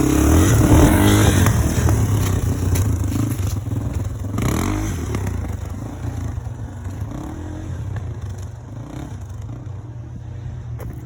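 A 230cc single-cylinder four-stroke dirt bike engine running and revving up and down with the throttle, with some clatter, gradually getting quieter.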